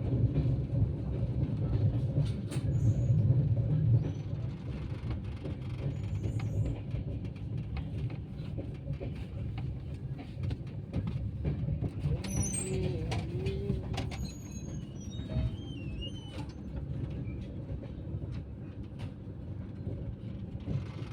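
Passenger train running into a station: a steady low rumble with scattered clicks from the wheels, loudest in the first few seconds. A few brief high squeals come about midway.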